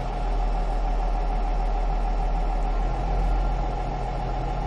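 Massey Ferguson 6480 tractor's six-cylinder diesel engine running steadily at a constant speed after starting.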